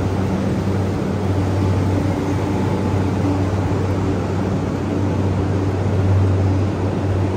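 Steady hum from a stationary E235-series electric train's onboard equipment, the auxiliary power and air conditioning running while it stands with its doors open. It is a low drone with a couple of faint higher tones over a steady whoosh.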